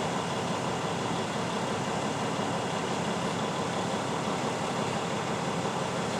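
Steady, even running of an idling truck engine heard from inside the cab.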